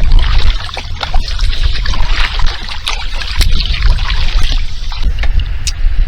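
Kayak paddle strokes through calm lake water: the blades dipping and pulling, with splashes and water dripping and trickling off the paddle between strokes, over a steady low rumble.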